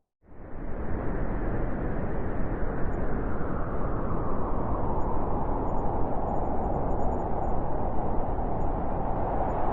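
Blizzard wind blowing steadily, coming in within the first half second after a brief silence. A howling tone grows stronger through the second half.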